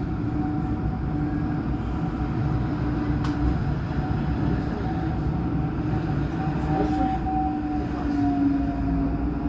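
Alstom NGT8D low-floor tram running along the line: a steady rumble of wheels on rail with a steady electric whine from the drive.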